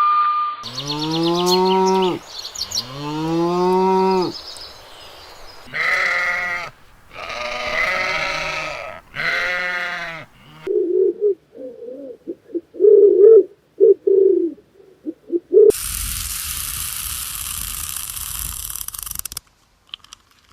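Sheep bleating: five long calls, the first two deep and the next three higher with a wavering pitch. These give way to a run of short, quick, lower calls, then a few seconds of steady noise.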